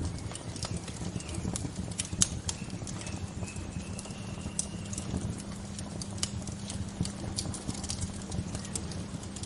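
Wood bonfire crackling, with irregular sharp pops and snaps over a low steady rush. A faint high, thin bird note is held for about two seconds, starting about three seconds in.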